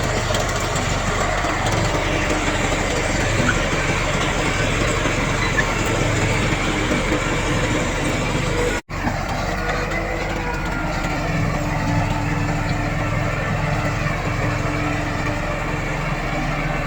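Heavy earthmoving machinery, a bulldozer and dump trucks, with diesel engines running steadily. The sound cuts out for a split second about nine seconds in, then picks up again.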